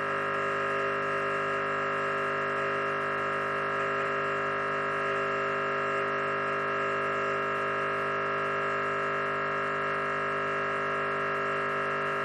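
Espresso machine pump running steadily with a constant buzzing hum, pushing water through the group head against a blanking disc to backflush out the last of the cleaning solution.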